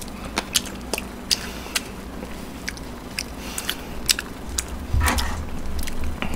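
Close-miked chewing of marinated pork ribs, with a run of sharp, wet mouth clicks and smacks.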